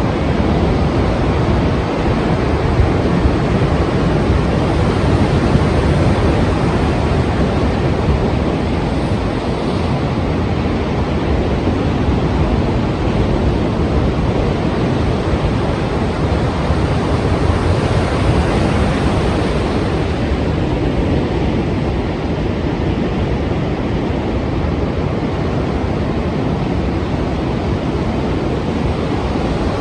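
Strong sea waves and surf, a steady dense rush with heavy low rumble and no distinct breaks between waves.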